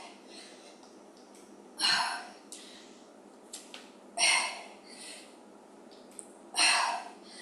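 Three forceful breaths out through the mouth, evenly spaced about every two and a half seconds, one with each weighted squat. There are a few faint small clicks in between.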